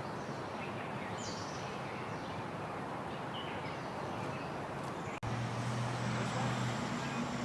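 Outdoor ambience: a steady background hiss with scattered short bird chirps. The sound drops out for an instant about five seconds in, after which a low steady hum joins.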